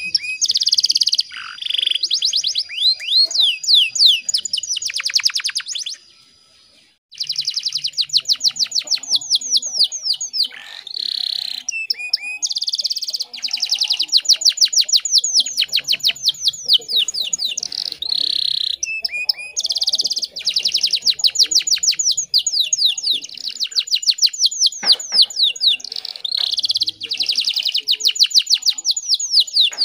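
Domestic canary singing: long phrases of rapid trilled notes and rolling runs, one after another, with a brief pause about six seconds in.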